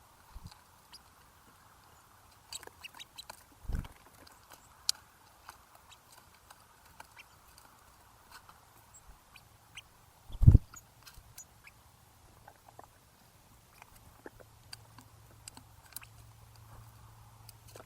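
Birds feeding at a backyard feeder close to the microphone: scattered small clicks and taps of pecking at seed, with two low thumps, the louder about ten seconds in.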